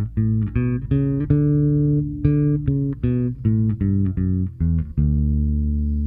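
Empire 58 custom shop electric bass with La Bella flatwound strings being played: a quick run of single plucked notes, then a low note held from about five seconds in, ringing on.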